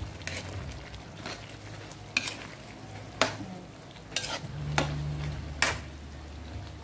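Metal spoon stirring a thick pork and vegetable stew in an aluminium pan, clinking sharply against the pan about once a second, with a low steady hum underneath.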